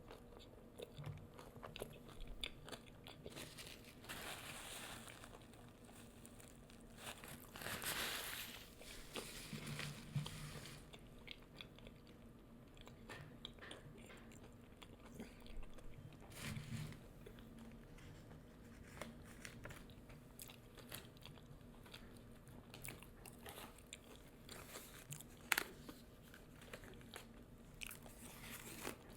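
Close-up eating sounds: crunchy fried food bitten and chewed, quietly, with louder crunching bites every several seconds between softer chewing.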